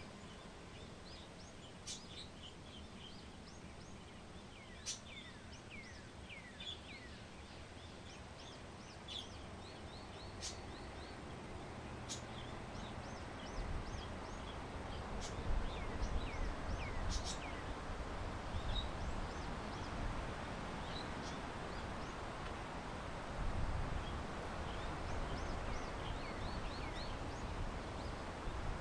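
Small birds chirping over and over in short, quick downward-sliding calls, with a few sharp clicks in between. About halfway through, wind gusts on the microphone add a low rumble that comes and goes.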